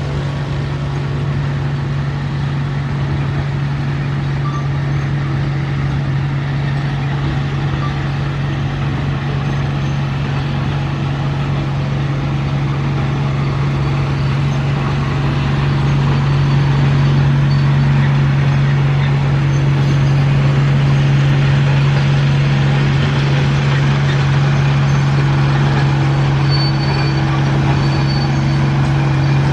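Diesel engine of heavy earthmoving machinery running under work, a steady low drone that grows a little louder about halfway through.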